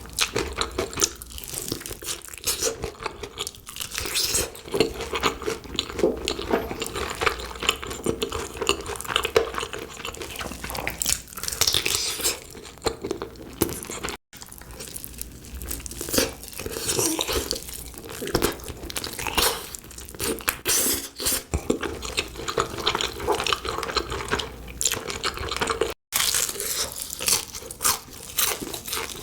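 A person chewing and crunching food into the microphone, a dense run of irregular crunches and mouth sounds. It breaks off for an instant twice, where one clip is spliced to the next.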